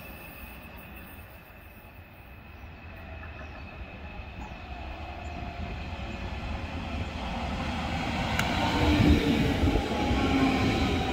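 Berlin S-Bahn class 481/482 electric train pulling into the station. It grows steadily louder as it nears and runs close past, with a rumble of wheels on rail and an electric whine from its running gear.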